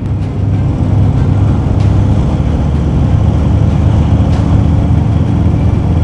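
Harley-Davidson motorcycle's V-twin engine running steadily while riding, a low, even drone.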